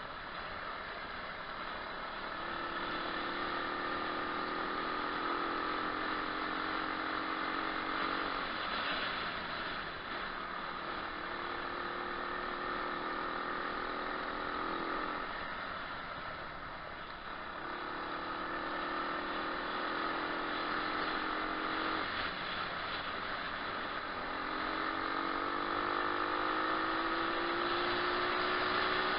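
125cc single-cylinder four-stroke pit bike engine pulling under throttle, its pitch rising slowly, dropping away and climbing again about four times, under a constant rushing noise of wind and ground.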